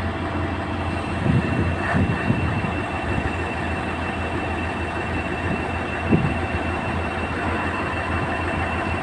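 Road recycler's heavy engine running steadily, with a low hum and a thin steady high whine over it, and a few faint knocks in the first couple of seconds and again past the middle.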